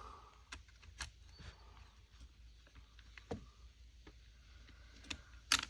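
Faint, scattered clicks and taps of small plastic handle parts and a spring being fitted by hand into an Echo CS-355T chainsaw's top handle, with a quick cluster of sharper clicks near the end.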